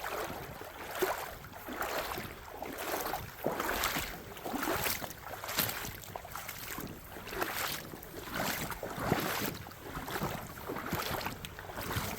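Footsteps walking along a rocky creek, about one to one and a half steps a second, each a noisy crunch or scuff, with wind rustling the microphone.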